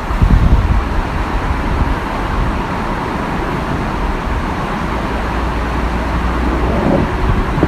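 Steady rush of falling water, with low wind buffeting on the microphone near the start.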